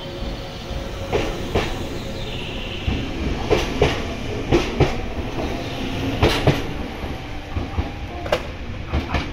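Nankai two-car electric train pulling out and rolling away, its wheels clicking over rail joints in close pairs as each bogie passes, over a steady rumble with a faint high whine.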